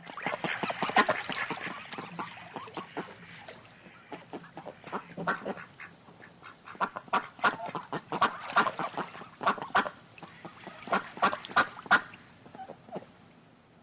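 A flock of birds calling: many short calls in quick, overlapping series, thinning out briefly around the middle and picking up again.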